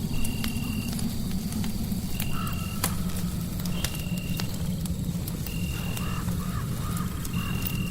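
Fireplace fire crackling, scattered sharp pops over a steady low rumbling white noise. A short, even high chirp repeats about every one and a half seconds, with a few lower warbling calls about two seconds in and near the end.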